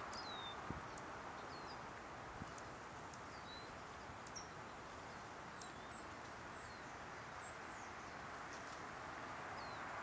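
Small birds chirping faintly: short, high chirps, many of them quick downward slurs, scattered through, over a steady hush of outdoor background noise.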